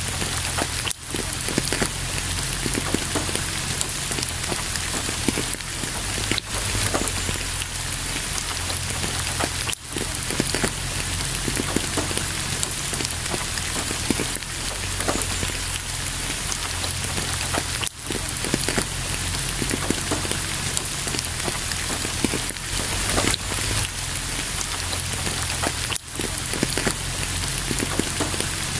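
Steady rain falling, an even hiss of rain with individual drops. The sound dips for an instant about every eight seconds.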